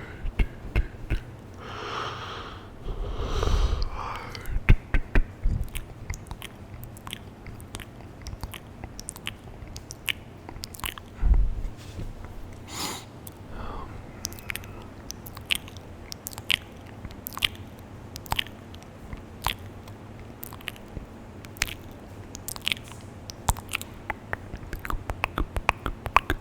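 ASMR mouth sounds close to a high-sensitivity microphone: a steady scatter of sharp, wet tongue and lip clicks and smacks. There are a few breathy puffs in the first four seconds.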